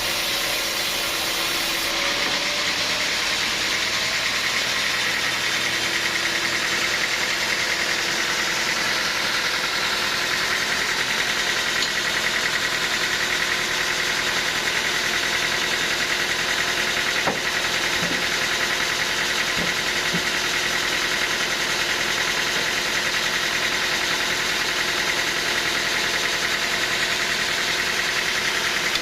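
Sawmill machinery running with a steady mechanical noise, with a single sharp click about 17 seconds in.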